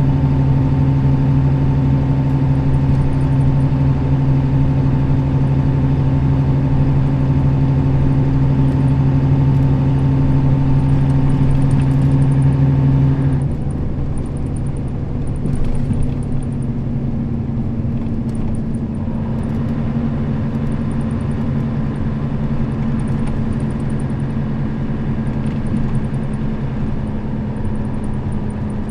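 Nissan Diesel KL-RA552RBN route bus running, heard from inside the cabin as a steady diesel engine drone. About halfway through, the engine note suddenly changes and gets quieter, then settles into a new steady note.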